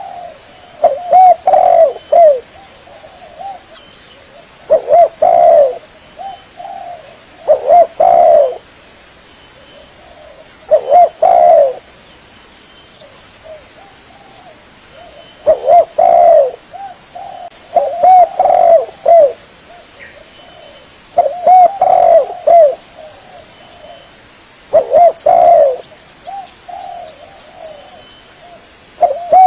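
Spotted dove (tekukur) cooing: a phrase of a few quick, rolling coos repeated every two to four seconds, about nine phrases in all. This is the call used to lure the birds in.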